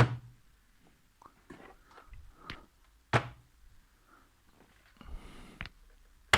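Sharp knocks and thuds of hard objects being handled and set down, the loudest about three seconds apart, with lighter clicks and a brief scuffle between.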